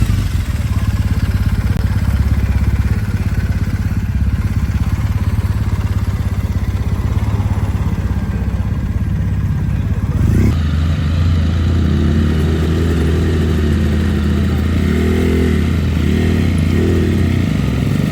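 A motorcycle engine running steadily, with its pitch rising and falling several times in the second half as it is revved.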